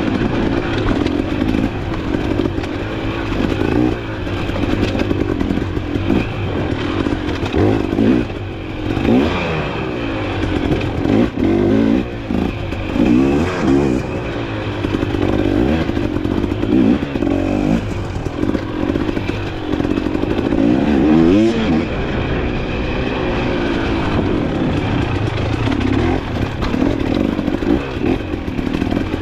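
Dirt bike engine revving up and down over and over, its pitch rising and falling every second or two as the rider works the throttle on a rough off-road trail.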